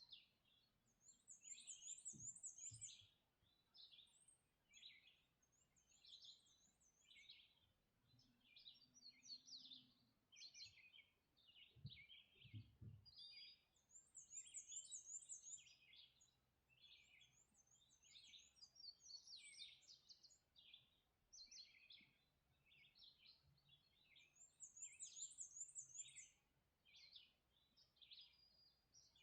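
Faint dawn chorus of several songbirds: many short chirps and whistled phrases overlap, while one bird repeats a high, rapid trill three times, about every eleven seconds.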